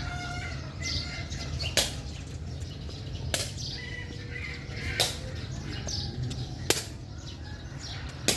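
A game rally: five sharp hits, evenly about a second and a half apart, as a ball or shuttlecock is struck back and forth.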